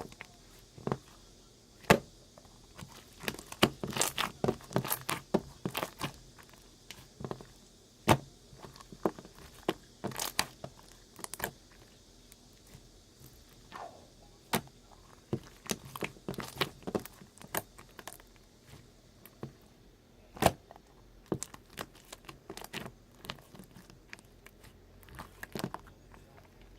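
Slime being squeezed and pressed by hand, giving irregular sharp clicks and pops from trapped air, in clusters with short quiet gaps.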